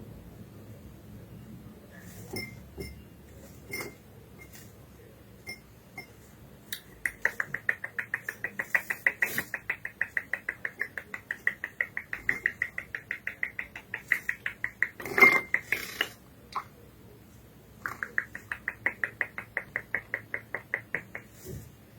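Curió (chestnut-bellied seed finch) making a rapid run of short, same-pitched ticks, about five or six a second, in two long runs with a louder knock between them.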